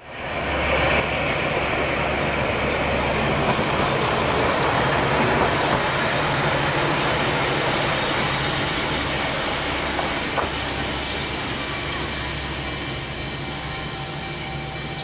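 Diesel train running past at close range: a steady low engine drone under wheel-and-rail noise, easing off over the last few seconds as it moves away, with a single sharp click about ten seconds in.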